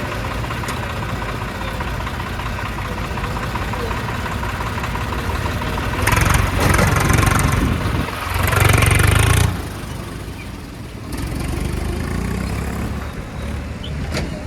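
Heavy diesel machinery engine running steadily, with two louder surges about six and eight and a half seconds in.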